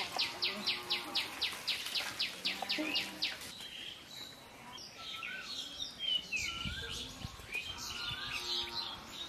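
Birds calling: a fast run of short, sharp, high chirps about five a second for the first three seconds, then scattered whistled calls rising and falling in pitch.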